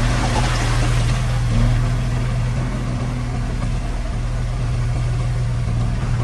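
Diesel engine of heavy earthmoving machinery running steadily with a low hum, with a short rush of hiss in the first second or so.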